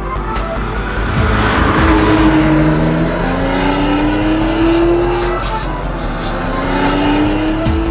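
Air-cooled Porsche 911 SC flat-six engine accelerating through the gears: its pitch climbs three times, dropping back between climbs at each upshift.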